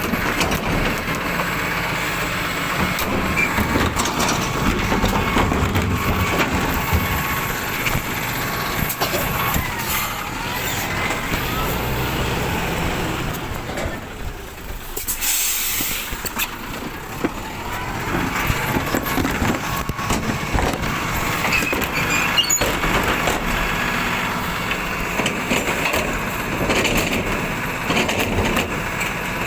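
Rubbish truck running, with its engine and mechanical noise going steadily, and a short sharp hiss of air just past halfway, like an air brake being released.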